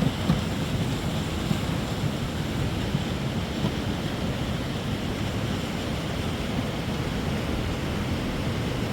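Steady rushing noise with a low, fluttering rumble and a few faint knocks.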